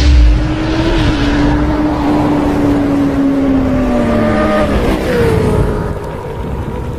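Sport motorcycle engine running at high revs; its pitch holds steady, then sinks slowly about four to five seconds in as the revs drop.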